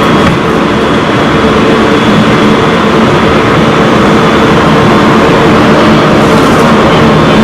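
Tobu 30000 series electric train running on the rails: steady wheel and rolling noise with the hum of its Hitachi IGBT VVVF traction equipment, its tones holding a level pitch.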